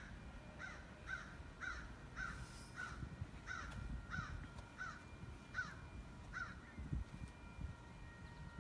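A bird calling over and over, about two short calls a second, a dozen in all, then stopping about six and a half seconds in.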